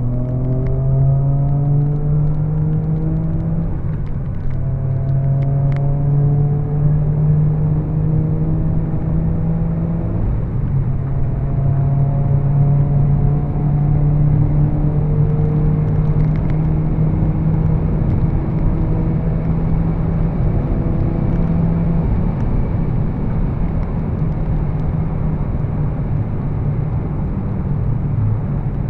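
2004 Hyundai Tiburon's twin-turbo 2.7-litre V6 pulling at wide open throttle, its note climbing slowly and steadily. There are short breaks at upshifts about four and ten seconds in. The engine tone sinks into a steady rush of road and wind noise at high speed near the end.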